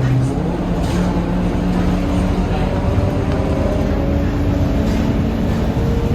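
Scania K230UB single-deck bus running under way: a steady diesel engine and drivetrain rumble with a few faint tones that shift slightly in pitch.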